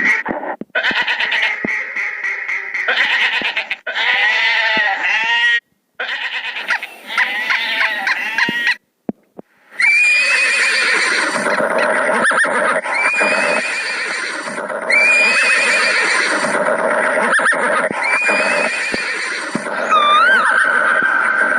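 A series of animal calls cut one after another, broken by short silences about six and nine seconds in, with repeated arching calls in the later part.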